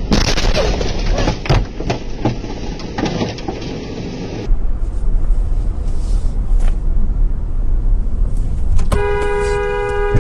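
Road and engine noise from vehicles driving, with scattered knocks. About nine seconds in, a car horn starts sounding steadily.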